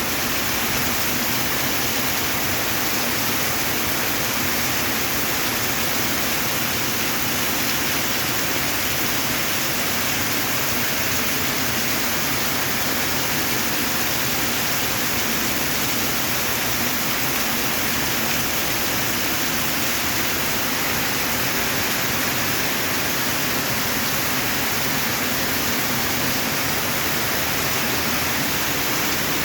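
Heavy rain falling steadily, a constant even hiss with no breaks or distinct drops.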